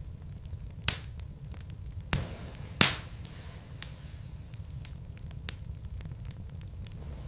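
Wood fire burning in a fireplace: a steady low rumble of flames with scattered sharp crackles and a few louder pops, the loudest about three seconds in.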